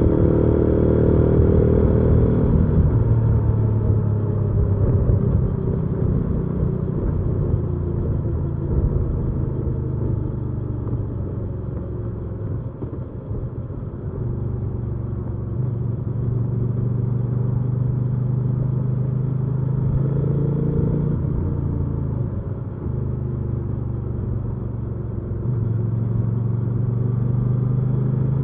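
Hyosung GV300S Aquila 300's V-twin engine running while riding, its pitch falling and rising with throttle and gear changes: it drops about three seconds in, climbs and drops again around two-thirds of the way through, and picks up again near the end.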